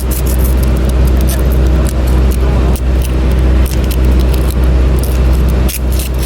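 Chipping hammer knocking slag and flux off a weld bead in quick, irregular metallic clicks, over a steady low engine hum.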